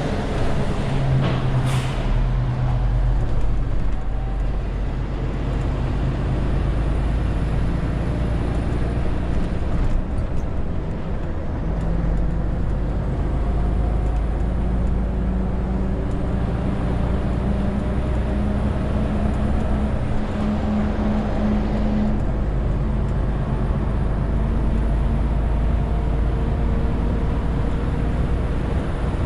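Renault T520 truck's diesel engine running steadily under load, its pitch shifting a few times. There is a short burst of air hiss about two seconds in.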